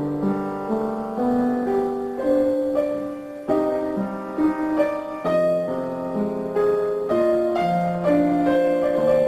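Background music: piano playing a gentle melody with chords, a new note about every half second.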